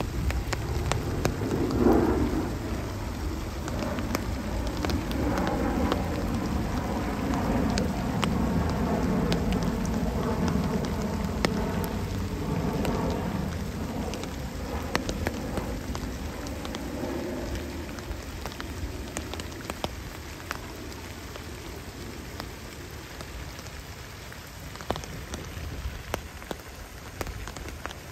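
Steady rain falling on pond water, with many small drop ticks. Under it a low rumble swells early on and fades away by about two-thirds of the way through.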